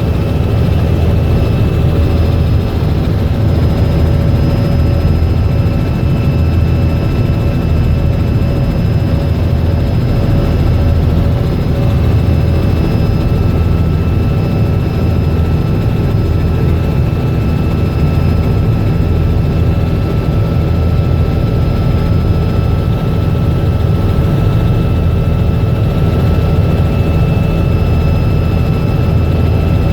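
Robinson R66 helicopter running steadily: its Rolls-Royce RR300 turbine and main rotor make a loud, low drone with a few steady high whining tones above it.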